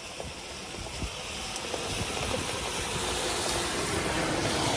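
A fast-flowing river rushing, growing gradually louder, with wind rumbling on the microphone.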